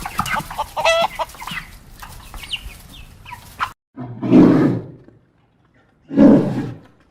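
Chickens clucking and squawking in short, sharp calls that stop abruptly about three and a half seconds in. Then come two loud, rough, low calls from a larger animal, about two seconds apart.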